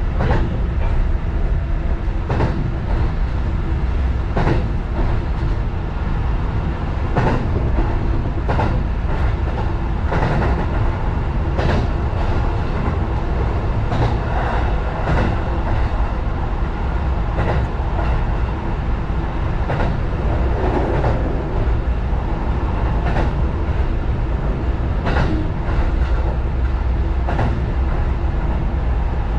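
Sanyo Electric Railway 6000 series electric train running, heard from inside the cab: a steady rumble of wheels on rail with sharp clacks at irregular intervals of a second or two.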